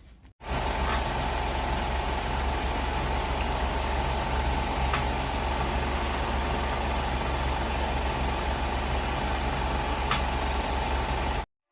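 A steady machine hum with a deep drone and a held mid-pitched tone. It starts abruptly just under half a second in and cuts off suddenly near the end, with a few faint ticks along the way.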